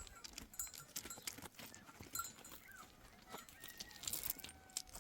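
A flock of sheep and goats milling about: scattered short knocks and clicks, with faint tinkles from a neck bell.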